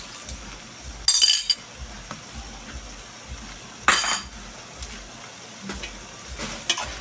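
A cooking utensil stirring chicken asado sauce in a pot while cornstarch thickens it, with two loud clanks against the pot, about one second and four seconds in.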